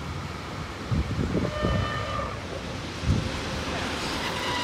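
Electric multiple unit train running through a station, with a short horn blast about one and a half seconds in.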